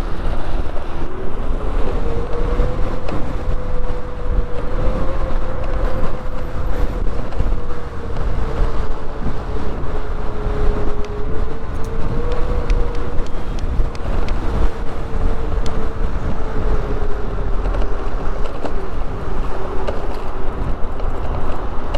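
Wind buffeting the microphone with road rumble while riding an Onyx RCR electric moped. A steady motor whine climbs in pitch about a second in, then slowly sinks.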